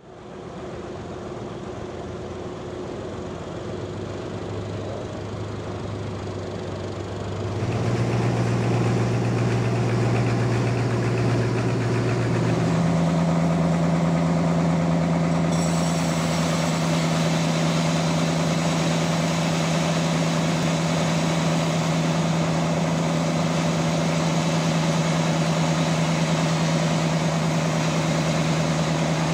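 Sawmill's engine running with a steady hum that steps up in speed and loudness about seven seconds in and again about thirteen seconds in, then holds at a higher steady pitch.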